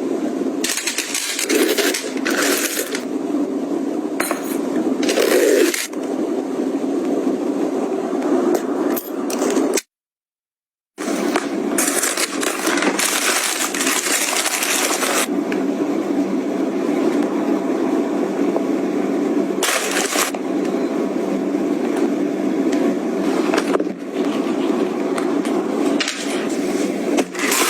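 Packaging and items being handled at close range: repeated bursts of rustling and crinkling with light clicks and taps, over a steady low hum. The sound cuts out completely for about a second near the middle.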